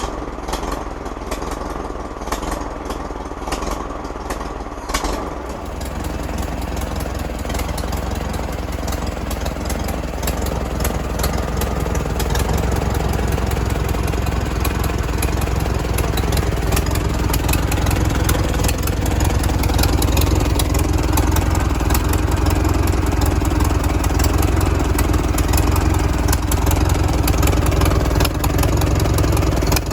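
The Farmall H tractor's four-cylinder engine runs smoothly on its first start after years standing, with no coolant in it. About six seconds in it gets louder and fuller, building for several seconds and then holding steady.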